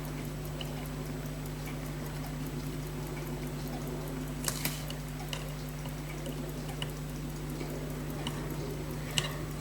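Small sharp clicks of metal tools on pocket watch movement parts, a pair about halfway through and a louder one near the end, over a steady electrical hum.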